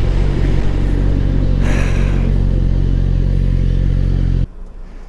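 Motorcycle engine running steadily and loud close to the microphone, cutting off abruptly about four and a half seconds in.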